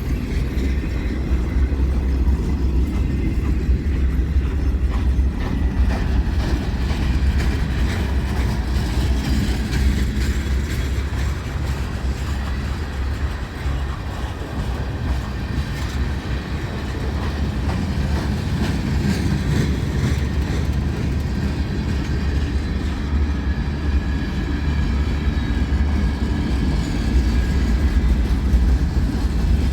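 A train running on the rails: a steady, loud low rumble of wheels and cars that holds throughout.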